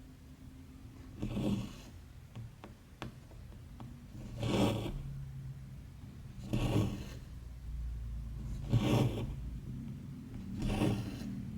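Embroidery thread being drawn through cross-stitch fabric, a short rasping rub about every two seconds, five times, with a few light ticks of the needle between pulls.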